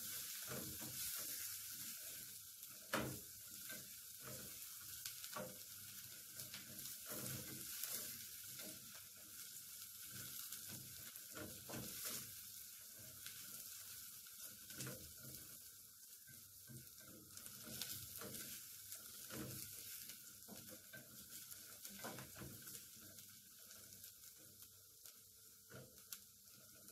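Chopped spring onions and garlic sizzling in hot oil in a metal pot, with a wooden spoon stirring and now and then clicking and scraping against the pot. The sizzle gradually fades.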